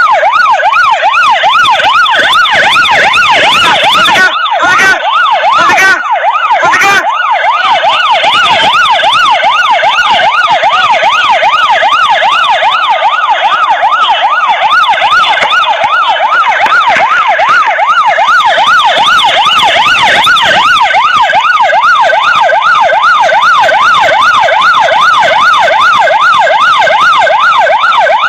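Police motorcycle siren on fast yelp, its pitch sweeping quickly up and down about three to four times a second, loud and steady throughout. Several sharp bangs or knocks cut across it between about four and seven seconds in.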